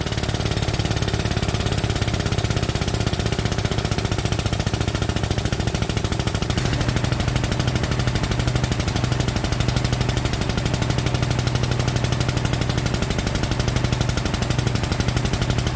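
An engine running steadily under load with a rapid, even pulsing hum while the car's front end is being pulled straight.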